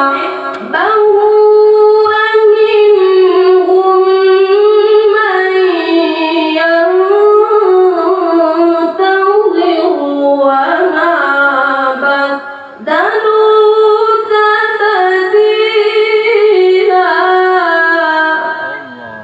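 A boy reciter's high voice chanting Quranic recitation (tilawah) in long, ornamented melodic phrases, with a short break for breath about two-thirds of the way through and a fade near the end.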